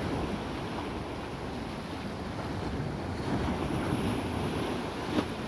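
Sea waves rolling in and washing ashore, a steady surf wash that swells a little past the middle, with wind rumbling on the microphone. A short sharp click near the end.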